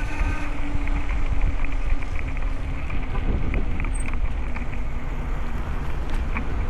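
Wind buffeting the microphone during a bicycle ride: a steady low rumble, with faint light clicks and rattles scattered through it.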